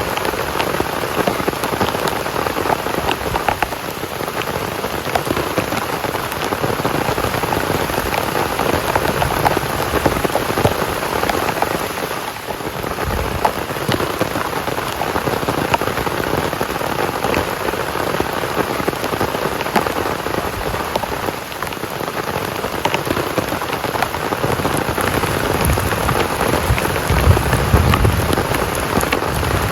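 Heavy rain falling steadily, with scattered sharp drop ticks. A short low rumble comes near the end.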